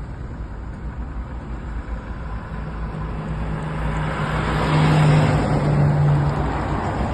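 Heavy truck passing: its engine drone and tyre noise grow louder, peak about five seconds in, then ease off.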